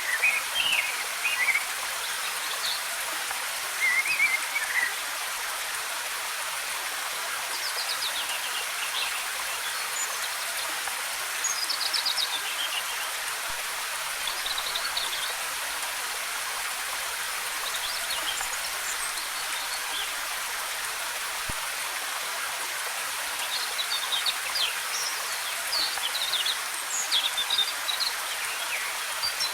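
A waterfall rushing steadily, with short bursts of small forest birds chirping every few seconds, busiest near the end.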